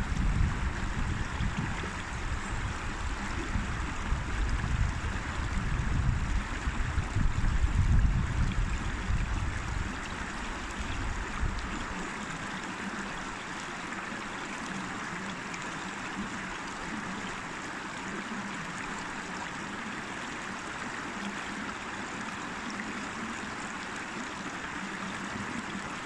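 River water flowing steadily with a constant rushing hiss. Over the first half there is also an irregular low rumble, which stops about halfway through and leaves the water sound alone.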